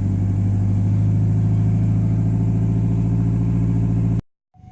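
Toyota Solara four-cylinder engine idling steadily just after a jump start, running to recharge its battery off the alternator. The sound cuts off abruptly about four seconds in.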